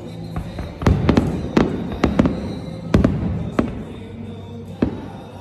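Aerial fireworks shells bursting overhead: a quick, irregular series of about seven sharp bangs, the loudest about a second in and near the middle.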